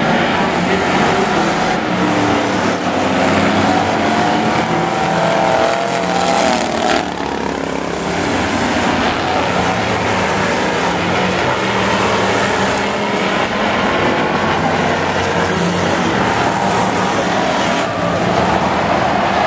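Several demo trucks racing around a speedway oval, their engines running loud and continuously. Around five to seven seconds in, one engine revs up in rising pitch.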